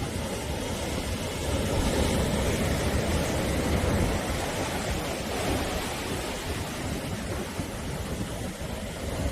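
Sea surf breaking and washing on the shore in a continuous rush of noise that swells about two to four seconds in and then eases off.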